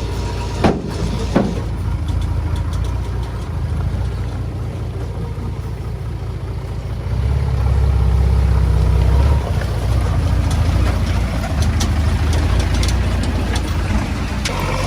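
Diesel engine of a Komatsu D20A bulldozer running steadily, growing louder and heavier for a couple of seconds in the middle as it works. Two sharp knocks sound about a second in.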